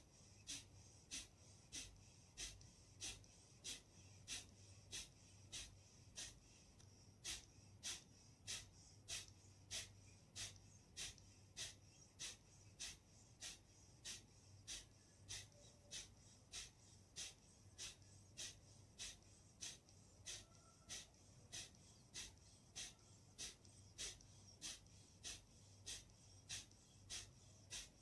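Kapalbhati pranayama breathing: short, forceful exhalations through the nose in a steady rhythm of about two a second, faint.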